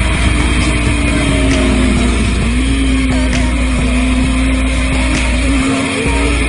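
Motorcycle engine held at steady high revs, its pitch dipping slightly about two seconds in, then holding level.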